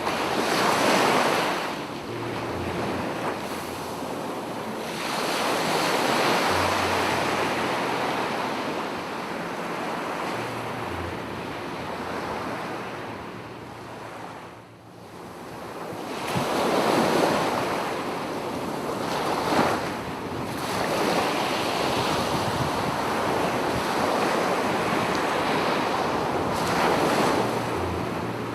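Ocean waves breaking on a beach, the surf swelling and receding in several surges, with a brief lull about halfway through. Wind buffets the microphone.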